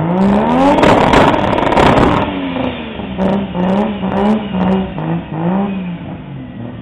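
Nissan Skyline R33's RB27 straight-six revving hard in a burnout with the rear tyres spinning, loudest about a second or two in. The engine is then blipped up and down in quick succession and fades near the end.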